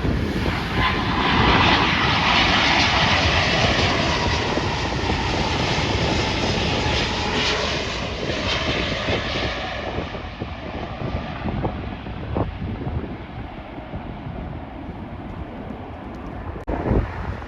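Jet airliner passing close by on its landing approach: the engine noise swells within the first couple of seconds and fades away after about ten seconds. Wind buffets the microphone throughout.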